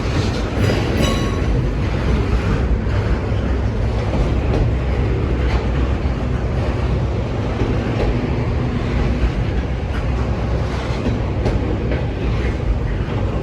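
Norfolk Southern intermodal freight train rolling past, a steady loud rumble of steel wheels on rail with scattered clicks as the cars pass.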